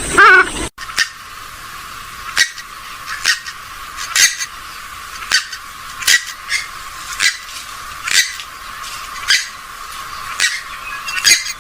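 Calls of a rail-family waterbird of the swamphen or moorhen kind. A brief wavering call opens, then comes a run of short, sharp, thin call notes, roughly one a second.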